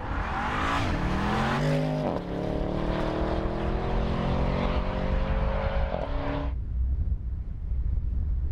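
Porsche Panamera Turbo's twin-turbo V8 under hard acceleration: a gear shift just after two seconds in, then the engine note climbs steadily through the next gear. It cuts off suddenly at about six and a half seconds, leaving a low rumble.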